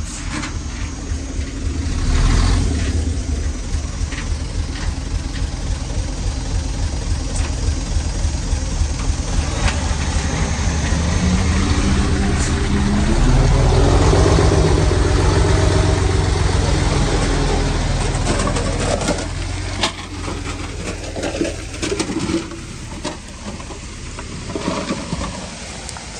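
Heavy-equipment diesel engine running under load, its pitch and loudness climbing towards the middle and then easing off, with a run of knocks and clanks in the last few seconds.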